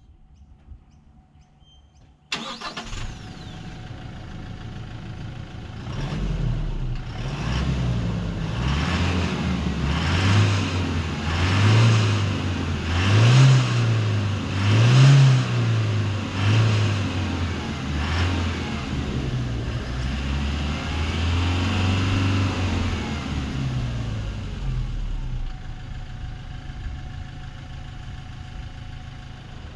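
The HiLux's 2.8-litre turbo-diesel four-cylinder engine cuts in suddenly about two seconds in. It then runs hard, its note rising and falling again and again every second or two. Later it settles to a steadier drone and eases off near the end.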